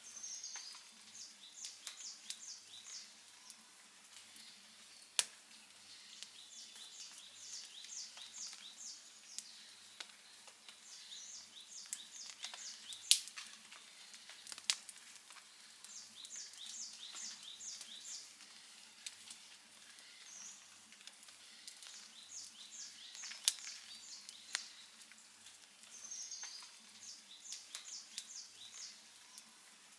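A wood fire crackling, with a handful of sharp pops. Over it a small songbird repeats a short phrase of rapid high chirps every few seconds.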